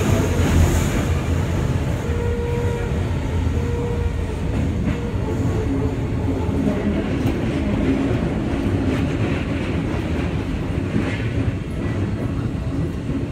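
Train running on the nearby tracks: a steady rumble of wheels on rail.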